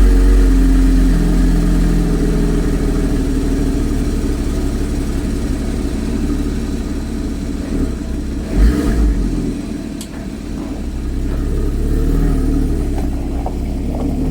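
Porsche Cayman S 981's 3.4-litre flat-six running at fast idle after a cold start, its level easing down over several seconds and rising again near the end. A short low thump comes about two-thirds of the way through.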